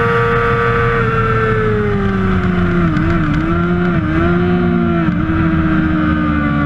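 Kawasaki Ninja ZX-6R's inline-four engine at high revs, held for about a second and then easing off, falling in pitch with a few brief dips, over heavy wind rush.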